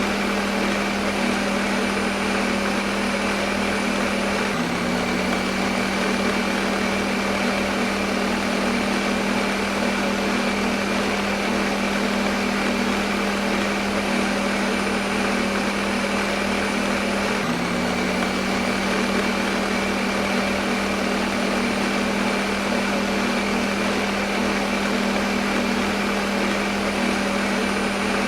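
Electric kitchen blender running continuously with a steady motor hum and whir. Its pitch hitches slightly twice.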